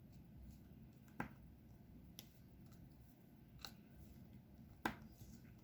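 Near silence with four faint, unevenly spaced clicks: a diamond painting pen tapping drills onto the canvas.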